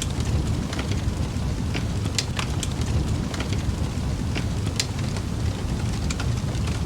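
Campfire burning: a steady low rumble of flames with scattered, irregular sharp crackles and pops from the burning wood.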